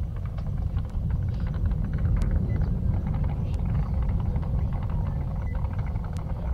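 Deep, steady rumble of the Artemis 1 Space Launch System rocket's engines and solid rocket boosters, heard from far off during ascent, with a few faint crackles.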